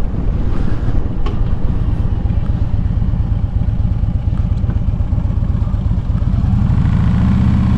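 Harley-Davidson Street Glide's Twin Cam V-twin engine running with a steady low throb while riding, its pitch rising near the end as it accelerates.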